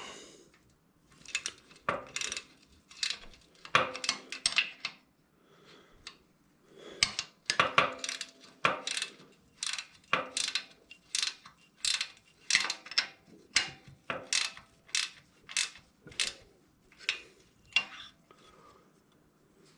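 Hand tools working on metal motorcycle suspension parts: a run of sharp metallic clicks and clinks with a short ring to each. A few come scattered at first, then a steady series of about one every three-quarters of a second through the second half.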